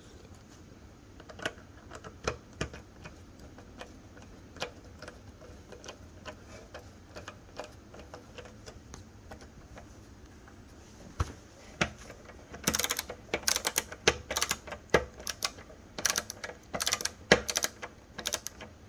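Irregular sharp clicks and taps, turning into a rapid, busy run of clicks in the last six seconds, as a fitting on a stainless steel shower panel is tightened.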